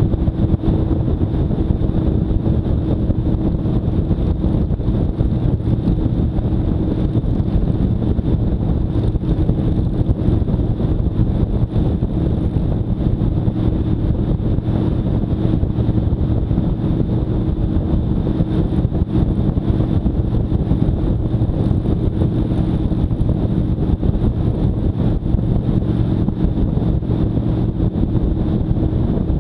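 Motorcycle running at a steady speed while riding, with an unchanging engine tone under road and wind rush.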